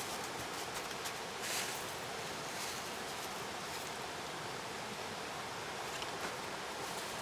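Steady outdoor hiss with a few faint soft crackles and rustles.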